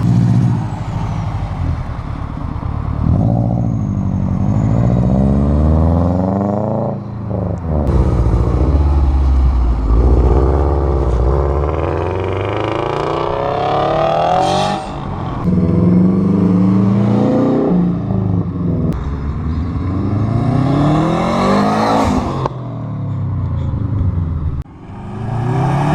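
Subaru cars' engines revving and accelerating, the pitch rising and falling again and again as several cars pull away or pass in turn.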